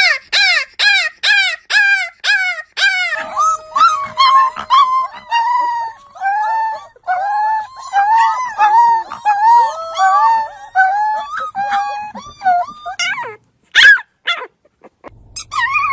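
Puppies howling. It opens with a quick run of short, falling 'awoo' yips, then turns into longer, wavering howls from more than one puppy at once, with a few single howls near the end.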